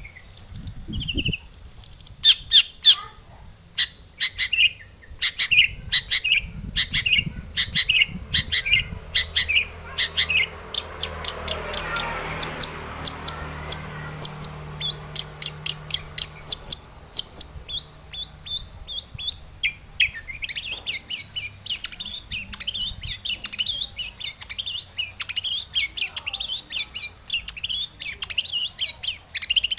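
Long-tailed shrike (cendet) singing a fast, chattering song of short, sharp notes in quick succession, the 'full isian' song stuffed with phrases mimicked from other birds.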